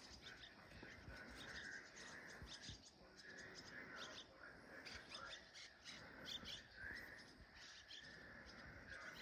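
Faint outdoor ambience of small birds chirping: scattered short high chirps over a soft trill that swells and fades every second or two.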